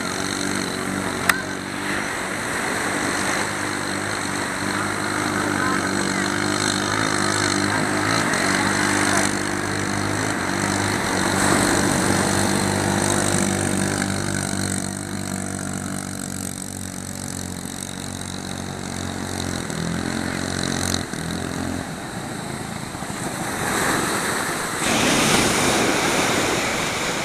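Small 7 hp boat engine running at full throttle in a steady drone that shifts in pitch about twenty seconds in. A rush of noise rises near the end.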